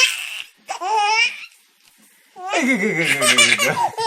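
A baby laughing: two short bursts, a pause of about a second, then a longer, louder run of laughter from about two and a half seconds in.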